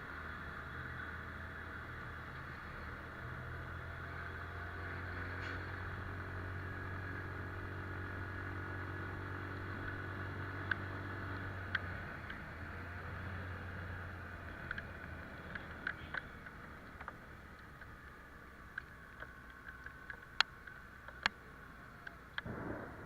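Italika Vitalia 125 scooter engine running steadily at a low hum under a steady hiss, fading out about halfway through; after that, scattered sharp ticks.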